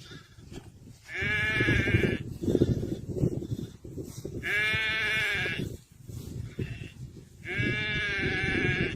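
Sheep bleating: three long calls of about a second each, a few seconds apart.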